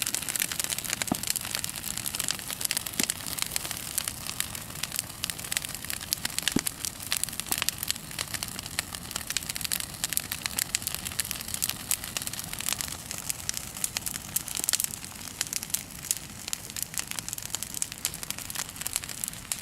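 Bonfire burning, crackling with a dense run of small sharp pops over a steady hiss.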